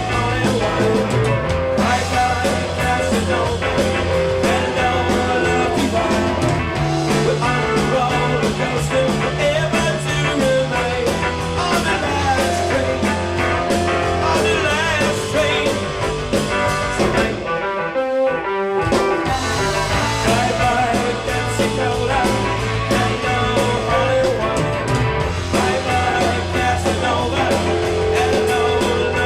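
Rock band playing an instrumental passage of the song, with guitar and steady bass notes; the music thins out briefly about two-thirds of the way through, then comes back in full.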